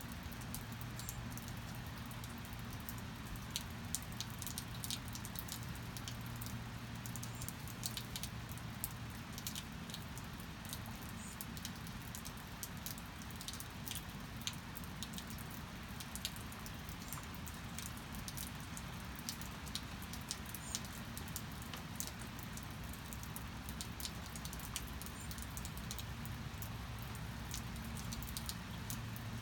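Steady rain falling, with many scattered sharp drips and small taps throughout. A faint low hum fades out about a third of the way in and returns near the end.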